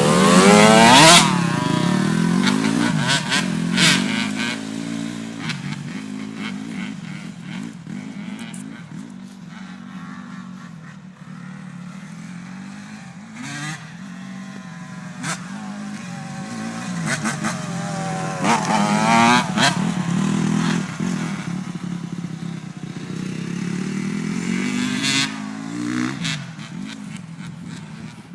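Off-road dirt bike engines revving up and down with the throttle as the bikes ride by, loudest near the start, fainter and more distant in the middle, then swelling again twice in the second half.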